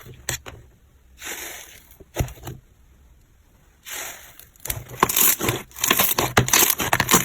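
Slime being pressed and squished, giving soft squelches and a few sharp clicks, then from about five seconds in a dense run of crackling, crunchy pops.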